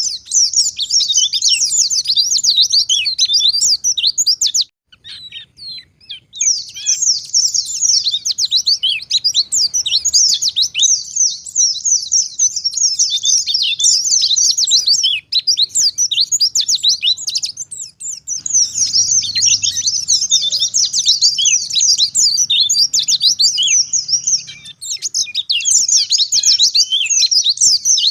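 Wild white-eye (pleci ngalas) singing a fast, unbroken twittering song of rapid high notes, breaking off for about a second and a half around five seconds in.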